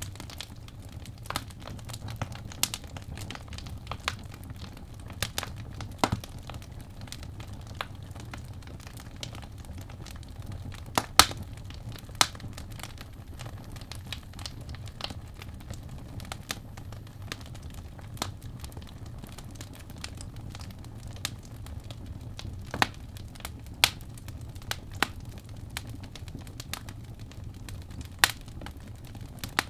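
Wood fire crackling in a fireplace: irregular sharp pops and snaps over a low steady rumble, with a couple of louder pops about eleven seconds in.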